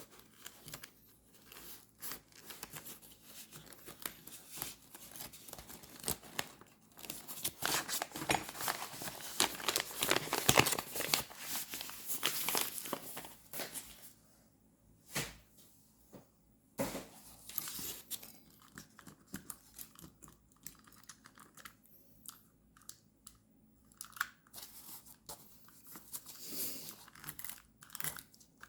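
Paper being torn, crinkled and handled while decorating a journal, with many small crackles and rustles, heaviest about a quarter to halfway through, then scattered light taps and rustles.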